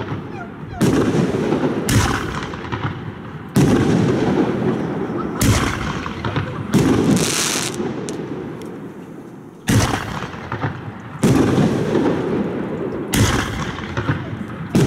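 Fireworks bursting in the sky: a sharp bang every one to three seconds, about nine in all, each followed by a rumble that fades away.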